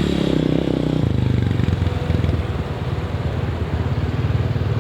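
Dirt bike engine running close up, its note shifting about a second in.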